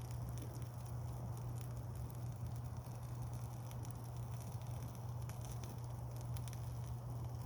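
Wood campfire burning, with frequent small crackles and pops over a steady low hum.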